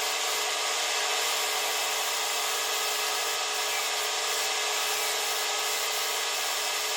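Compressed-air paint spray gun hissing steadily as paint is sprayed onto a car body.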